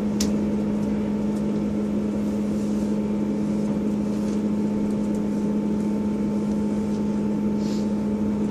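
Class 158 diesel multiple unit running steadily under way, its engine drone a strong, even hum with a fainter high steady tone above it.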